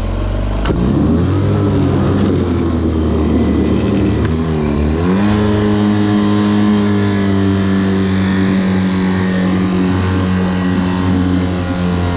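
Mercury 9.9 HP outboard motor revving up in neutral: the pitch rises about a second in, dips briefly around four to five seconds, then climbs again and holds at a steady high rev. It races instead of settling to idle when shifted toward neutral, which the owner takes as a sign that something is not right with the motor's shifting.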